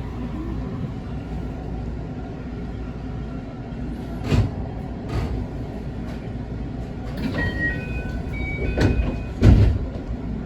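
A JR West 221 series electric train running along the line, heard from inside the car as a steady rumble. Four clunks come in two pairs, about halfway through and near the end, the last the loudest. A few brief high-pitched tones at slightly different pitches sound just before the last pair.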